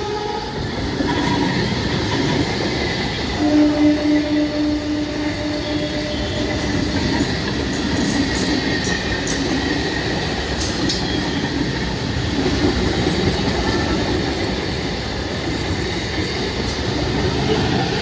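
Electric multiple-unit local train passing close by: a steady rumble of wheels on rails. A steady tone sounds for about three seconds starting about three and a half seconds in, and a run of sharp clicks comes near the middle.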